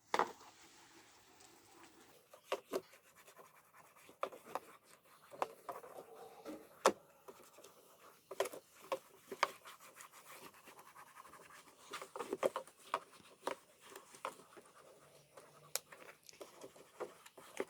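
Hands scrubbing shampoo lather over a scooter's plastic body panel, making irregular short rubbing and scratching strokes.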